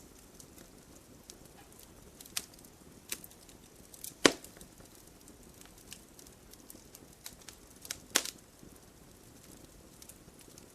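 Wood logs burning in a fireplace, crackling with scattered small clicks over a low hiss. Two sharp pops stand out, about four seconds in and about eight seconds in, and the first is the louder.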